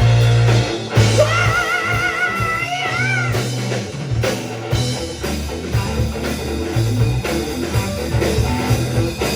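Rock band playing, with guitar, bass and drums; a held note with a quick vibrato rises over the band from about one second to about three seconds in.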